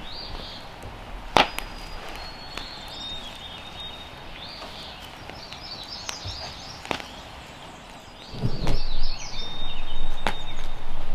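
Three sharp knocks a few seconds apart, with small birds chirping. From about eight seconds in a louder, rough, scraping noise sets in.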